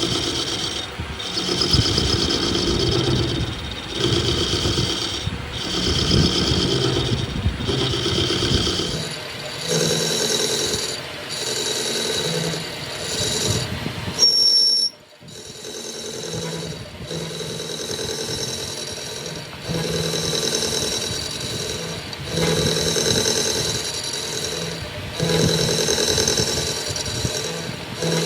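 Rhythmic scraping strokes of a hand tool working metal, about one stroke a second, with a brief drop-out about halfway through.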